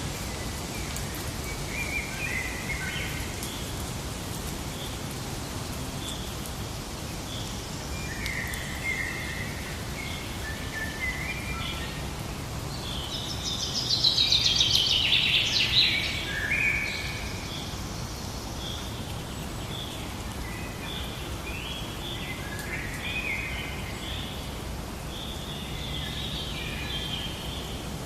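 Forest ambience: several birds calling and singing over a steady hiss. One bird sings much louder in a dense burst about halfway through.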